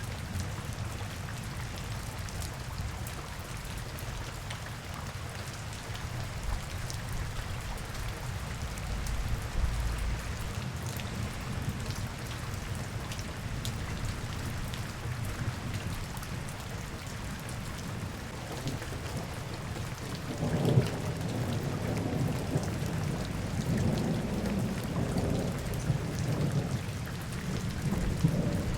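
Steady rain falling on hard surfaces, with scattered ticks of individual drops, over a low rumble that swells about two-thirds of the way through.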